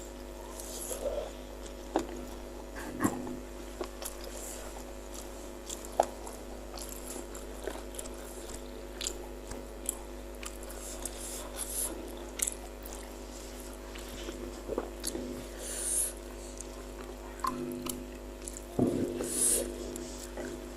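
Close-miked chewing and mouth sounds of someone eating spicy meatballs, with scattered sharp clicks and smacks. A faint steady hum runs beneath.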